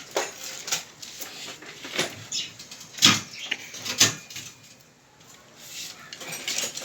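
Irregular knocks and clatter of objects being handled, the two loudest about three and four seconds in.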